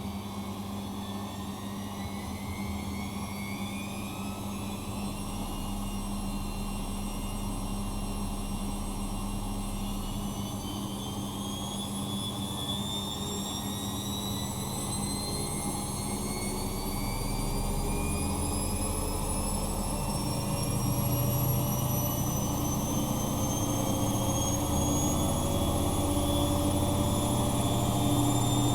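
Bosch Maxx Advantage WFCX2440 washing machine spinning up: the drum motor's whine rises steadily in pitch and grows louder as the drum accelerates in a spin toward 1400 rpm.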